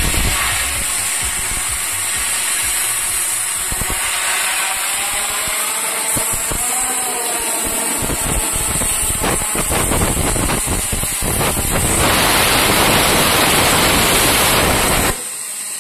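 Plasma torch of a CNC pipe and profile cutter running with a steady hiss. The hiss grows louder and fuller about twelve seconds in, then cuts off abruptly shortly before the end.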